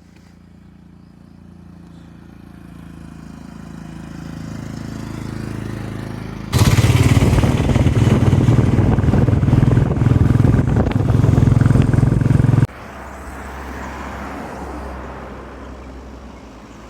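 Motorcycle engine running steadily, growing louder over the first few seconds. In the middle a much louder, rough rushing noise starts abruptly and cuts off just as suddenly about six seconds later. The steady engine sound continues after it.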